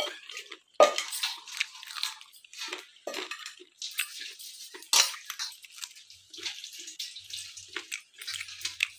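Close-up chewing and gnawing on a cooked chicken leg bone: irregular wet mouth sounds, lip smacks and small crunches, with a sharper crunch about a second in and another about five seconds in.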